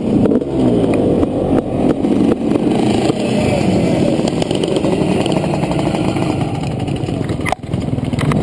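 Honda CR500 two-stroke single-cylinder motocross engine running under varying throttle, with a brief drop in sound near the end.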